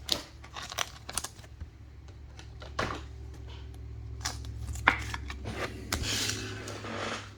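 Trading cards being handled and sorted: scattered light clicks and taps with short rustles, the sharpest tap about five seconds in and a longer sliding rustle near the end, over a low steady electrical hum.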